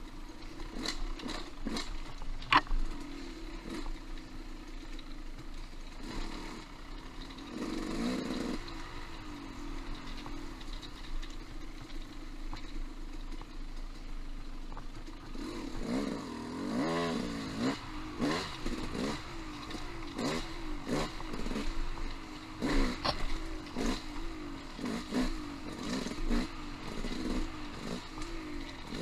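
Off-road motorcycle engine running on rocky singletrack, with knocks and clatter from rocks and the bike, a sharp knock a couple of seconds in. From about halfway the throttle is worked on and off, the revs rising and falling again and again.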